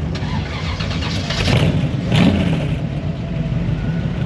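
Car engines running as cars drive out past, with a steady low engine drone and two louder surges about one and a half and two seconds in, like revving.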